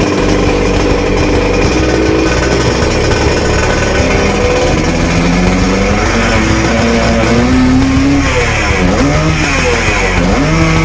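Suzuki TS 125 single-cylinder two-stroke engine running at a steady speed, then revved higher. From about eight seconds in it is blipped repeatedly, its pitch rising and falling about once a second.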